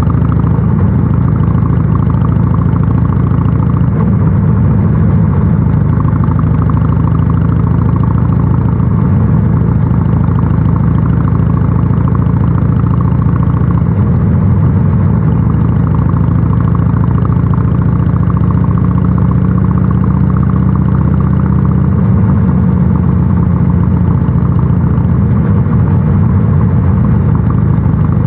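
Harley-Davidson Sportster 883 SuperLow's air-cooled V-twin running steadily through a North American-spec muffler, its pitch shifting only slightly.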